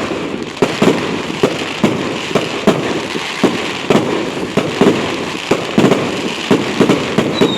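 Fireworks going off in a rapid, irregular barrage of bangs and crackles, about two or three bangs a second. Near the end a high whistle begins, sliding slowly down in pitch.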